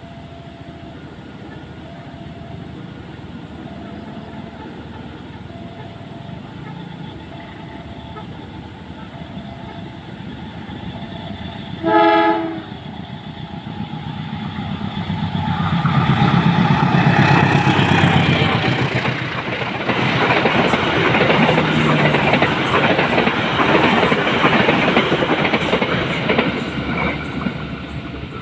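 KAI diesel-electric locomotive hauling a passenger train round a curve: its rumble grows as it approaches, and it gives one short, loud horn blast about 12 seconds in. The locomotive and carriages then pass, with wheels clattering over the rail joints.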